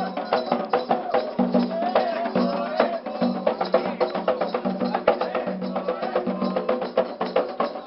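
Candomblé ritual music: hand drums played in a fast, steady rhythm with a sharp clicking percussion part, and voices singing over them.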